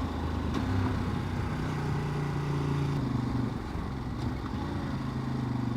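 Ducati DesertX's 937 cc L-twin engine running while the motorcycle is ridden along a mountain road. Its note drops a little about three seconds in as the revs come down.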